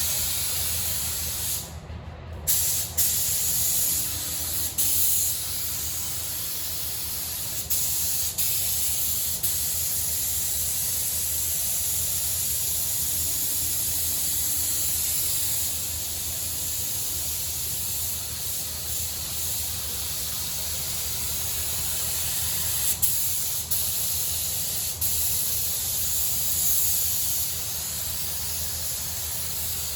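Air spray gun hissing steadily as paint is sprayed onto a car body panel, cutting off briefly about two seconds in.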